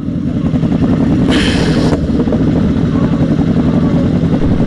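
Sport motorcycle engine running steadily while being ridden. A short rush of hiss, like wind or a passing vehicle, comes about a second and a half in.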